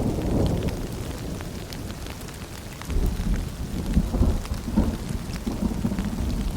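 Steady rain with fine dripping, under a low rolling rumble of thunder that eases and then swells again about three seconds in.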